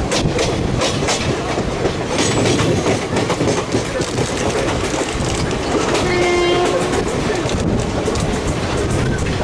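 Express train running on rails, a steady rumble with wheel clicks over the rail joints. About six seconds in, a train horn sounds briefly.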